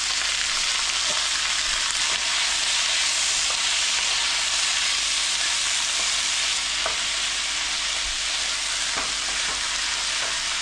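Blanched asparagus sizzling in hot cooking oil in a frying pan, a steady hiss, with a few light taps and scrapes of a wooden spatula stirring it.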